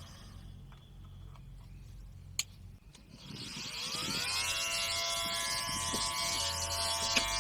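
Small 775 DC motor of a homemade trimmer switched on, a single click, then it spins up, its whine rising in pitch, and it settles into a steady high whine at full speed.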